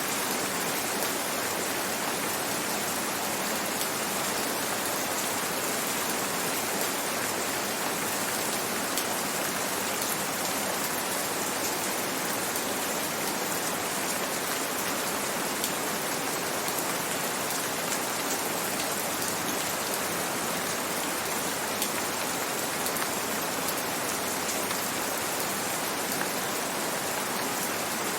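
Steady rain falling, an even hiss with a few single drops ticking out now and then.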